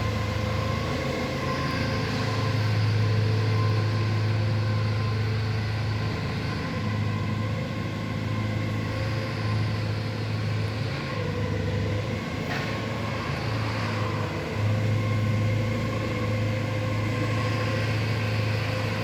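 A truck's engine running steadily, with a low hum and a steady whine, while it powers equipment that unloads air-conditioner outdoor units. The hum eases and picks up again a few times.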